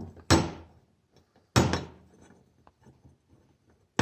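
Two sharp knocks about a second apart, followed by faint clicks, as a bolt is rocked in the wallowed-out bolt holes of the Jeep Cherokee XJ's old aluminium steering gearbox bracket. This loose fit is the source of the banging and clunking the owner heard while driving.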